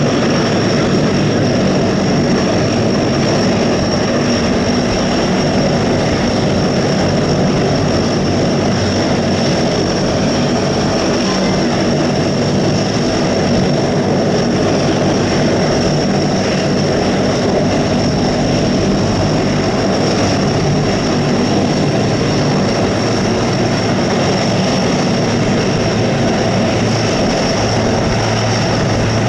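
Aircraft engine running at a steady speed, a constant low hum with a high, unchanging whine over it.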